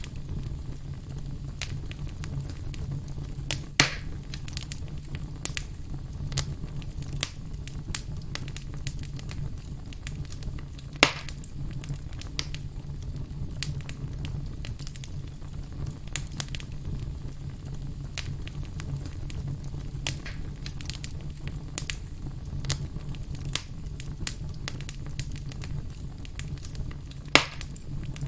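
Burning firewood crackling, with many small irregular snaps over a steady low rumble and three louder pops spread through.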